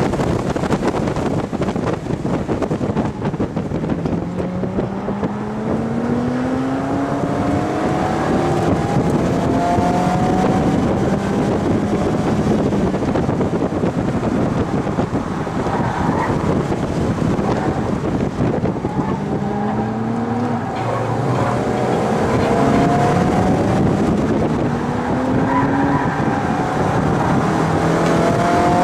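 Mazda MX-5's four-cylinder engine heard from inside the cabin, its revs rising in repeated pulls as it accelerates hard and shifts, over steady wind and road noise.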